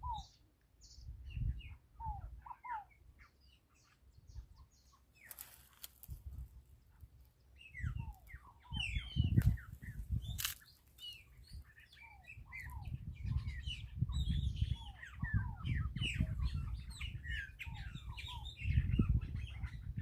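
Many small birds chirping and twittering in short quick calls, overlapping into a busy chorus that thickens from about eight seconds in. Under the birds, bursts of low rumble come and go and are the loudest sounds, with a short hiss about five seconds in and a sharp click about halfway through.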